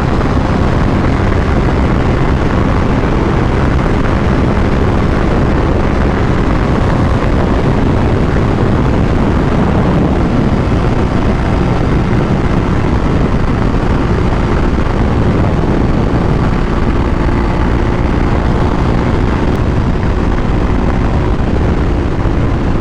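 Superbike engine running steadily at high highway speed, mixed with heavy wind rush over the rider's microphone.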